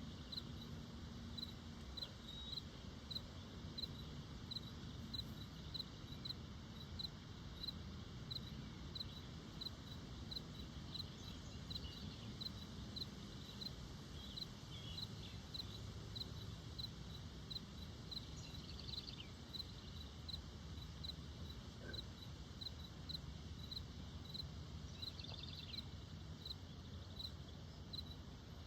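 Faint outdoor ambience with an insect, likely a cricket, chirping steadily: a short high chirp repeating a little more than once a second. A few fainter high squeaks come in now and then.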